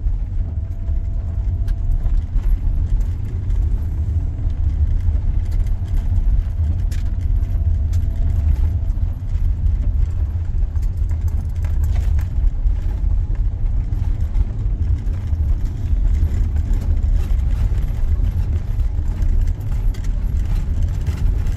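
Van driving slowly along a rough forest dirt track, heard from inside the cab: a steady low rumble of engine and tyres, with small clicks and rattles scattered throughout.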